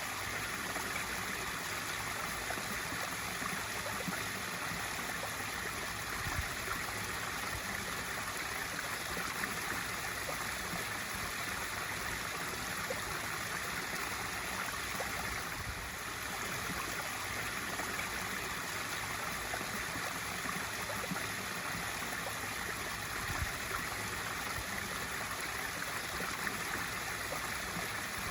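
Swimming-pool waterfall feature: water pouring and splashing steadily into the pool.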